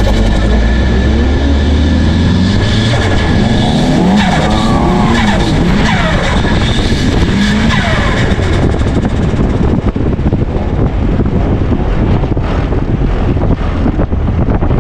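Mazda Miata drift car's engine revving up and down again and again through a drift on a wet track, over steady tyre and skid noise.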